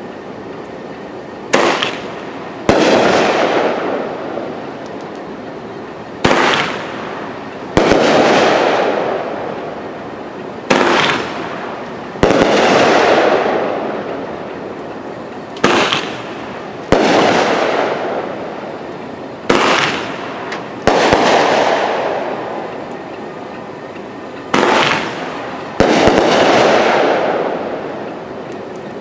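A 500-gram, 12-shot Phantom Fireworks cake firing six shots, one about every four to five seconds. Each shot is a launch thump followed about a second later by a louder burst that fades out slowly over a few seconds.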